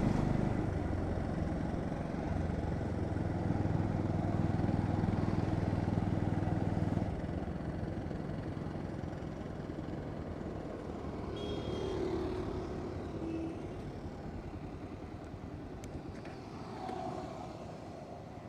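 Bajaj Pulsar NS125's single-cylinder engine running steadily while riding, its note dropping in level about seven seconds in as the throttle eases off.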